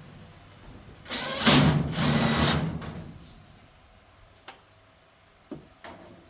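A small motor whirring in two short back-to-back bursts, followed by a few sharp clicks.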